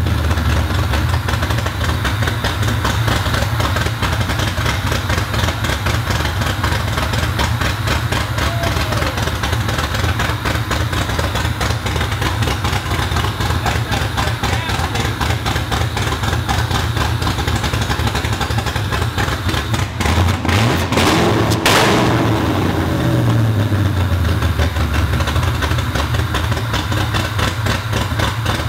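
Ford 3-valve V8 running on its first start on open headers with no exhaust, idling with some chop. About twenty seconds in it is blipped, the revs rising and then falling back to idle over the next few seconds.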